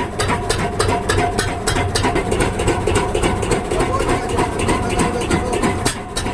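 Lister-type 10 HP single-cylinder diesel engine running steadily on test, with an even, slow knock of about five firing beats a second.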